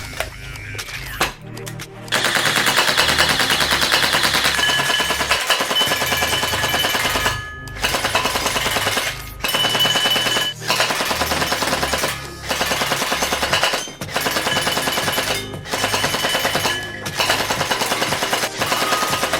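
Electric gel blaster built as a Kriss Vector replica firing full-auto in rapid bursts: a fast rattle of shots starting about two seconds in, broken by short pauses every second or two. Background music plays underneath.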